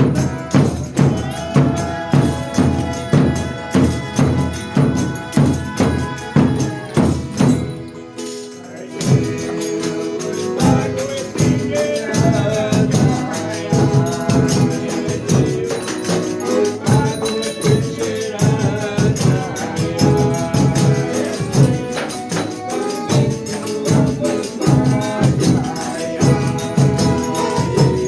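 Folia de Reis folk music: a tambourine and drum beat a steady rhythm of about two strokes a second. After a short break about eight seconds in, sustained melodic singing and playing come in over the beat.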